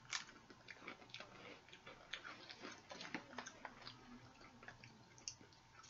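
Faint, irregular crunching and small clicks of chewing on dried peach pieces.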